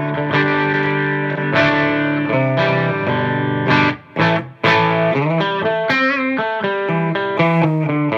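Distorted electric guitar, a Strat-style partscaster on its Guitar Madness hot blade bridge humbucker in full humbucking mode (no coil tap), played through a Marshall JVM210 combo amp, very loud and forceful. Chords and riffs ring on, with a short break about four seconds in and a bent, wavering note around six seconds.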